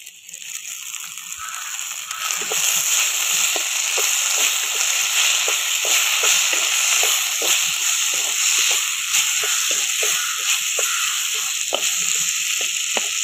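Chopped tomatoes and onions sizzling in hot oil in a clay kadai, stirred with a wooden spatula that knocks and scrapes against the pot again and again. The sizzle builds over the first two seconds, then holds steady.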